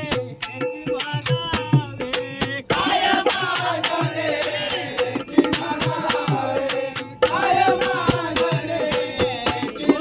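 Marathi devotional bhajan music: a steady jingling percussion beat over a held instrumental note, with a chorus of voices singing in about three seconds in.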